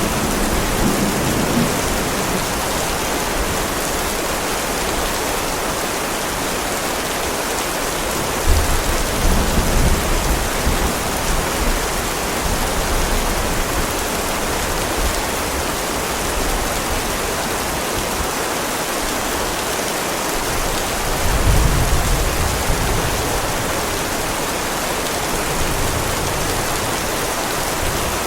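Heavy rain falling in a steady, dense hiss, with low rolls of thunder rumbling under it, the two strongest about eight seconds in and about twenty-one seconds in.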